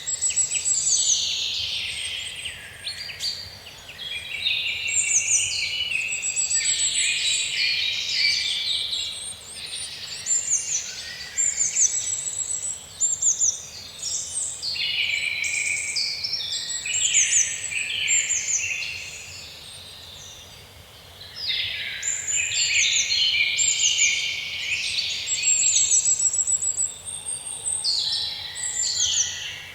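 Forest birdsong: several birds chirping, trilling and whistling over one another almost without pause, easing briefly about two-thirds of the way through.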